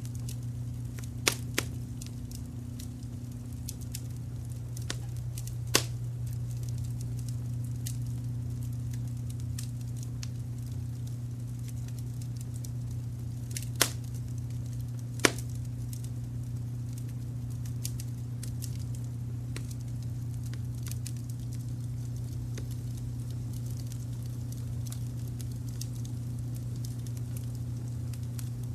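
Wood fire crackling, with scattered small ticks and a few sharper pops, over a steady low rumble of brown noise.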